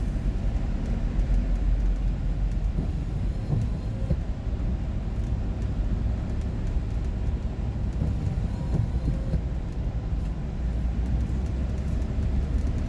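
Steady low engine and road rumble heard inside a moving vehicle's cab while driving.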